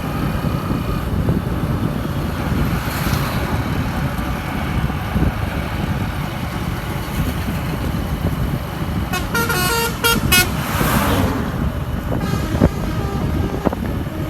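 Steady road and engine rumble on the move, with a vehicle horn beeping in a quick run of short toots about nine seconds in.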